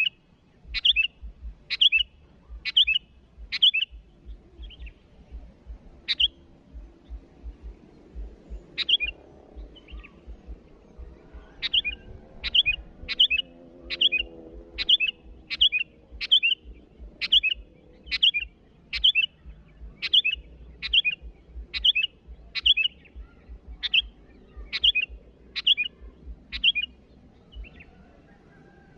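Sooty-headed bulbul (kutilang) calling vigorously with a long series of short, sharp notes. The notes are sparse for several seconds early on, then come steadily about twice a second.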